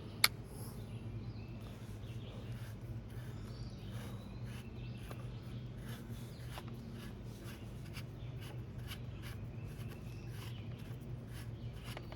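Handling a .22 suppressor on a rifle's threaded barrel: faint scratching, rubbing and small metal ticks as it is unscrewed and threaded on, against a low steady hum. One sharp click comes just after the start.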